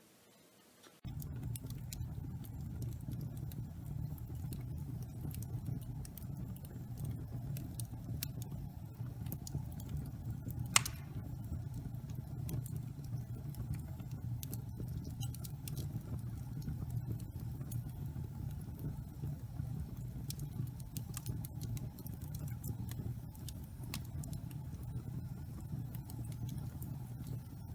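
Wood fire burning in a fireplace: a steady low rumble of flames with scattered crackles of burning wood and one sharp, loud pop about eleven seconds in. It starts suddenly about a second in.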